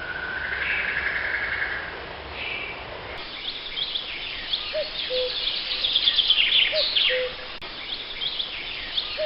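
Birdsong: a single bird's rising call in the first few seconds, then, after a sudden change about three seconds in, a dense chorus of small birds chirping rapidly, with a lower two-part call repeating about every two seconds.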